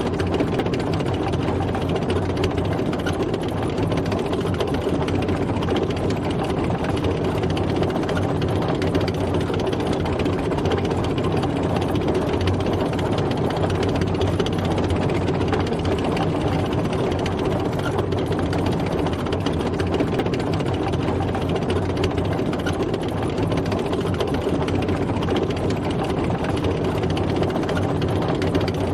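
A tank driving, its heavy engine running steadily under a dense, even rattle.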